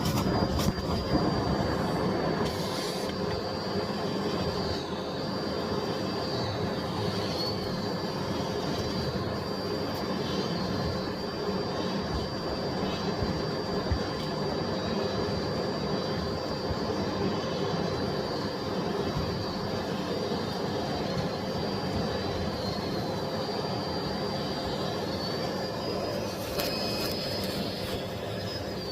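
Miele Blizzard CX1 Cat & Dog PowerLine bagless cylinder vacuum cleaner running while vacuuming: a steady rushing hum with a high whine that dips and wavers briefly now and then.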